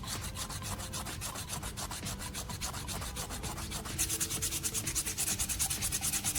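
Sandpaper rubbed by hand over a hardened hot-glue patch on plastic, in quick, even strokes. It grows louder and brighter about four seconds in.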